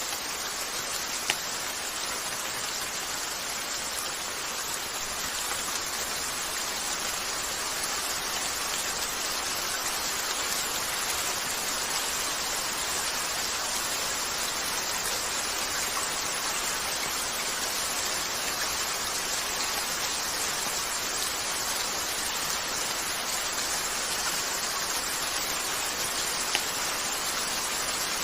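Steady rain falling on a window, an even hiss, with a short sharp crackle from a fireplace about a second in and another near the end.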